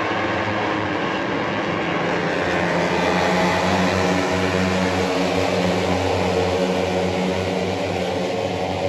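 Racing motorcycle engines running on track, heard as a loud, steady engine drone that holds an even pitch.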